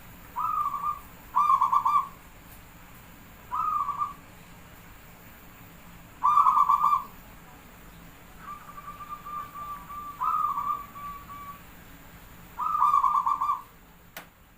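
Zebra dove (perkutut) cooing: a series of short, rolling coo phrases repeated every second or two, with one longer drawn-out phrase about eight seconds in. A single click near the end.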